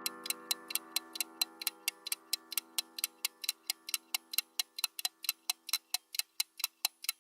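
Countdown-timer sound effect: an even run of sharp clock-like ticks, about four a second, while a sustained musical chord fades out during the first few seconds.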